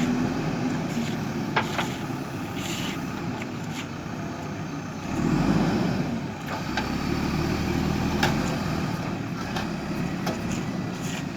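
JCB backhoe loader's diesel engine running under load, swelling louder for about a second around five seconds in, with a few brief sharp clicks.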